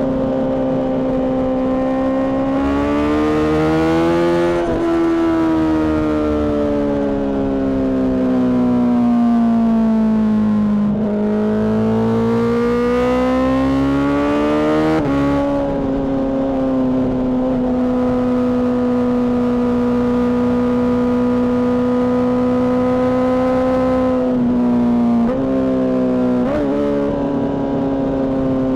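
Honda CBR600RR inline-four engine with a Mivv exhaust, running at high revs under way. Its pitch rises and falls with the throttle, holds level for several seconds, and dips briefly a few times near the end.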